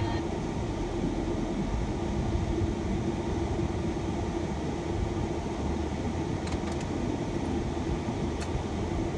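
Shuttle van driving, heard from inside: steady road and engine rumble with a faint steady hum, and a few light clicks near the end.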